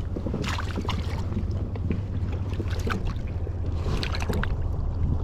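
Wind rumbling on the microphone aboard a small boat at sea, with scattered light clicks and taps throughout.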